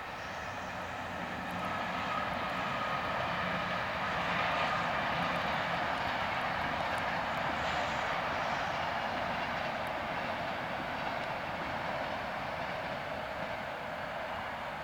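Train running along the line, a steady roar with a faint whine that swells over the first few seconds and then slowly eases off.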